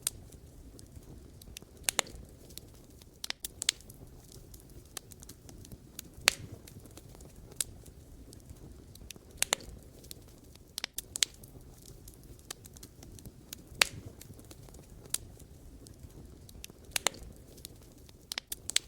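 Wood fire burning, with irregular sharp crackles and pops from the burning logs every second or so, some in quick clusters, over a low steady rumble of the flames.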